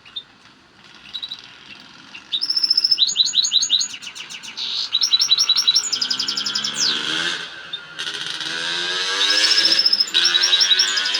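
European goldfinch singing a fast, excited twittering song: rapid runs of high, tinkling notes that start about two seconds in and continue, after a quieter opening. A fainter low droning sound runs underneath in the second half.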